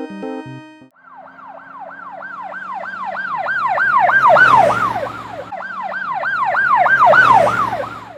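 Fire truck siren in a fast yelp, sweeping up and down about three times a second over a low engine rumble. It starts about a second in, swells loud twice and cuts off at the end.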